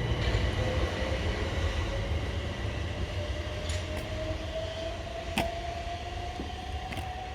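Southern Class 377 Electrostar electric train pulling away, its traction motors whining with a single tone that rises slowly in pitch as it gathers speed, over a low rumble that slowly fades. A few sharp clicks sound along the way, the loudest about five seconds in.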